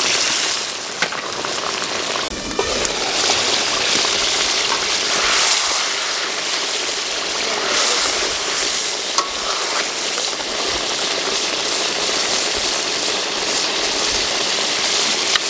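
Fish pieces in oil and spice paste frying in an iron wok, a steady sizzle, with a few short scrapes and clicks of a metal spatula stirring.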